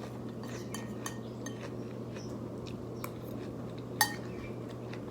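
A metal spoon clinks and scrapes against a plate several times while eating, with the sharpest ringing clink about four seconds in, over the steady hum of an overhead fan.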